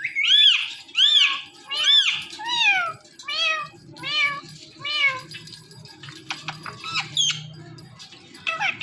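Ringneck parrot imitating a cat with a run of about eight meow-like calls, each rising then falling in pitch, then a few short, sharp whistles near the end.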